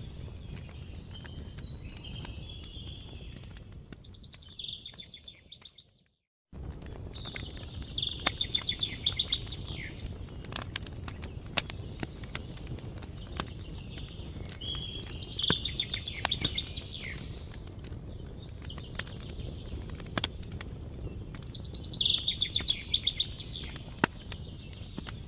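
Campfire crackling with scattered sharp pops over a steady low rumble. A songbird sings short trilling phrases every few seconds. About six seconds in, everything fades out to silence for half a second, then returns.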